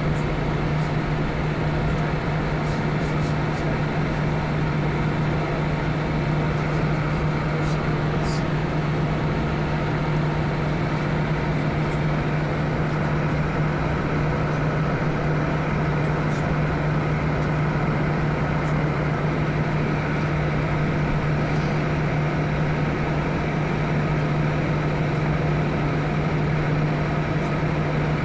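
Steady cabin drone inside an Airbus A319 on the ground before takeoff: a continuous hum with a strong low tone under a broad rush of air, unchanging throughout.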